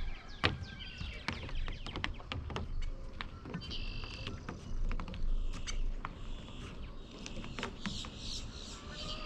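Birds calling in short repeated high-pitched bursts, with scattered sharp clicks and knocks throughout.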